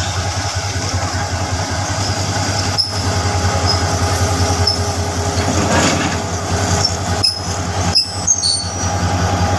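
Diesel-electric locomotive and coaches of a passenger train rolling slowly past at close range: a steady low engine drone, with short high squeals from the running gear as the train slows into the station.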